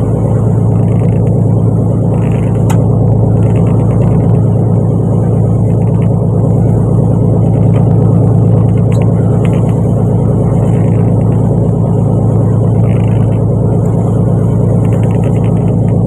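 Fishing boat's engine running steadily underway, a deep even drone.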